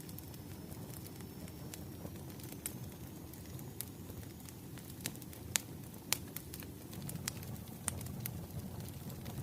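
Wood fire burning, crackling with irregular sharp pops over a low steady rumble; two pops stand out about halfway through.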